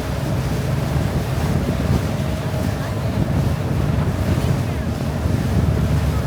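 Wind buffeting the microphone over the steady low rumble of a river cruise boat under way, with water noise from its wash and a faint steady engine hum.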